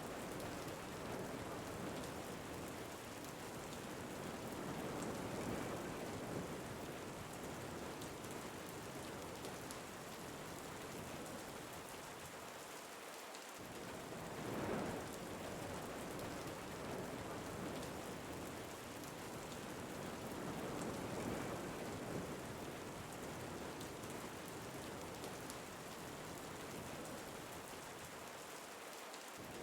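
Steady rain falling with wind, the sound rising and falling in gentle swells every several seconds.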